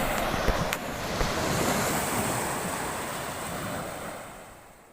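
Sea surf washing in with wind buffeting the microphone, a steady rushing noise that fades away near the end. Two small knocks sound early on.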